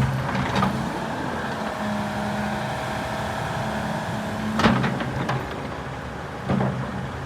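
Volvo EC350EL hydraulic excavator's diesel engine running steadily, with a thin whine for a couple of seconds and two sharp clunks, one about four and a half seconds in and another near the end.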